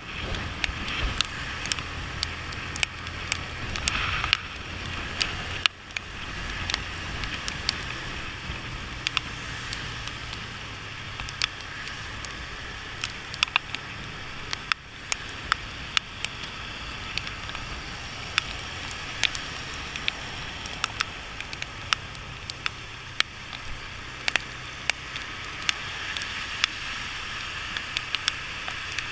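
Motorcycle riding on a wet road: a steady low engine hum under the hiss of tyres on water. Irregular sharp ticks of raindrops hitting close to the microphone run through it.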